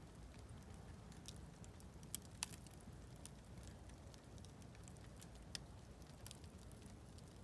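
Wood campfire crackling faintly, with a handful of sharp pops scattered through, the loudest two close together about two seconds in, over a low steady rumble.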